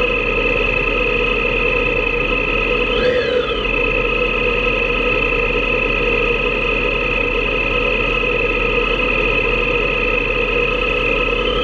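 Motorcycle engine running at a steady cruising speed with wind noise, holding an even pitch, with a brief rise and fall in pitch about three seconds in and the pitch starting to climb right at the end.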